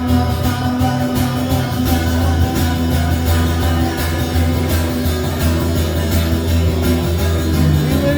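Rock band playing an instrumental passage led by guitar over a steady bass and drums, with no singing.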